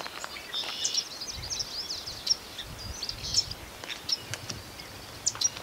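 Outdoor ambience of small birds chirping and singing, many short high chirps, with a few light clicks.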